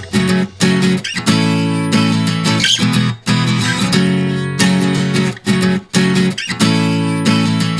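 Music: guitar playing strummed chords, broken by several short stops.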